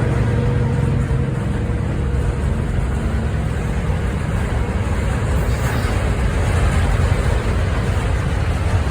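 Goods train passing, a loud steady rumble; a low engine hum dies away about a second and a half in.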